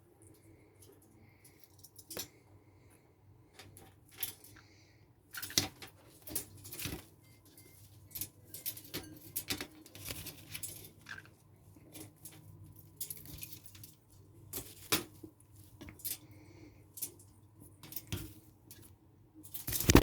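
Irregular rustling and sharp clicks, like handling around a nest, with a few faint, short, high peeps from nestlings in the first few seconds.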